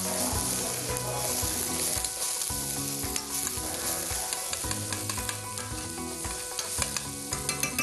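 Chopped onion and garlic sizzling as they fry in olive oil in a wide pan, stirred with a spatula. A quick run of light clicks from the utensil against the pan near the end.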